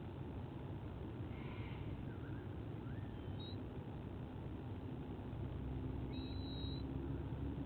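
Steady low outdoor rumble with a few faint, short chirps from small birds. A low hum grows a little louder about five seconds in.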